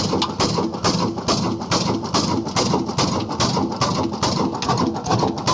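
Old single-cylinder 'black' diesel engine (26 hp, locally built) running steadily under load, its exhaust beating in an even rhythm of about five strokes a second.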